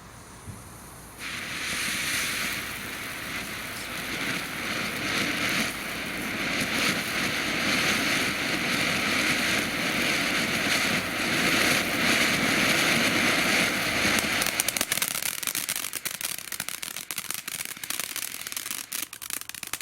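Small consumer firework fountain spraying with a steady hiss that starts about a second in and builds. Near the end it turns to rapid crackling, then stops suddenly.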